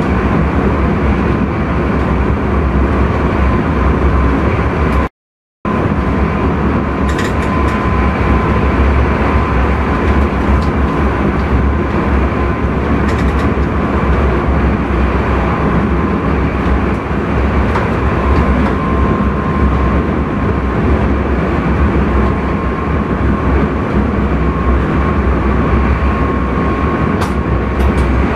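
Intercity train running along the line, heard inside the driver's cab: a steady rumble of wheels and running gear with a faint high steady whine over it. About five seconds in, the sound cuts out completely for half a second.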